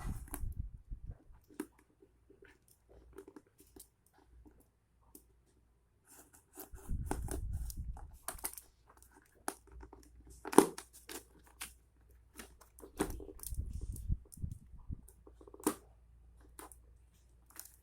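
Parcel packaging being pulled open by hand: irregular tearing and crinkling of the wrapping, with scattered clicks and bumps. One sharp knock a little past halfway is the loudest sound.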